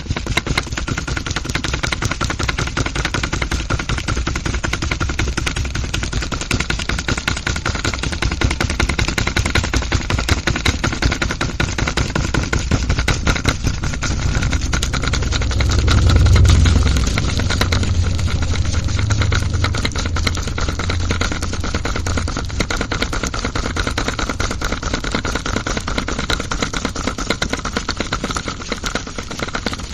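A small motor-driven miniature machine running with a continuous, very rapid rattling clatter, which swells louder and deeper for a second or two about halfway through.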